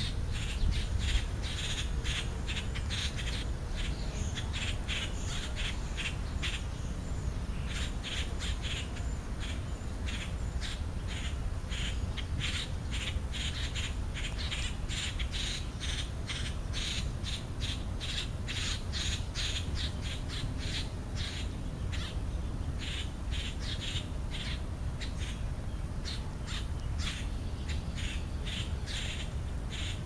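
A bird calling in short, high chirps, repeated quickly and without pause, over a steady low rumble.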